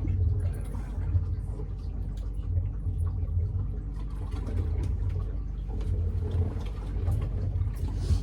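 Boat motor idling with a steady low rumble, with light water noise over it.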